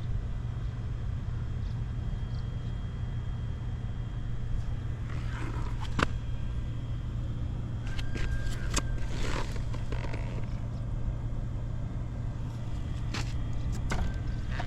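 Vintage Honda Dax 70's small single-cylinder four-stroke engine idling steadily, with no odd noises. A few sharp clicks and knocks sound over it partway through.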